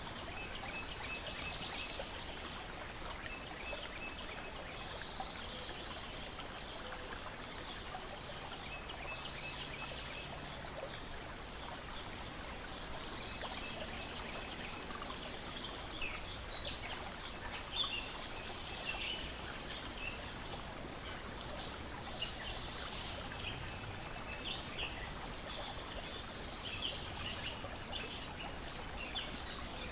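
Lakeside ambience: a steady wash of water lapping, with birds chirping and singing throughout and, now and then, a rapid repeated trill. A few sharp clicks stand out past the middle.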